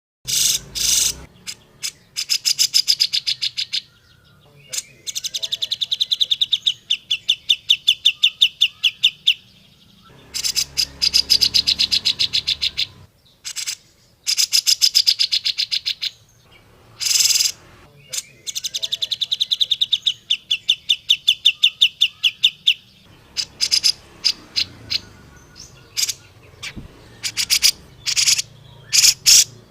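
Grey-cheeked bulbul (cucak jenggot) singing rapid chattering trills in phrases a few seconds long, with short single notes and brief pauses between them.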